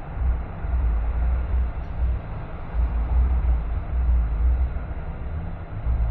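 Road noise from a moving car: a low, uneven rumble with a steady hiss above it.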